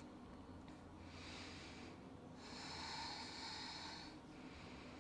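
Faint breathing: two long, hissy breaths, the first about a second in and the second, longer one from about two and a half seconds in.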